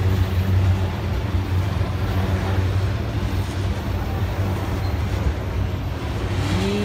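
Autorack freight cars rolling past close by: a steady low rumble of steel wheels on rail. The railfan thinks it sounds like the rail was recently ground.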